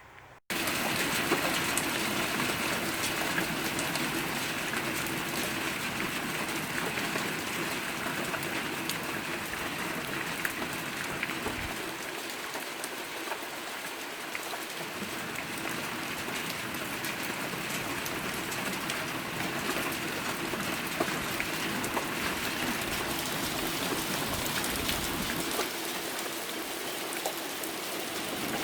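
Heavy rain falling steadily, a dense hiss full of tiny drop ticks, starting abruptly about half a second in.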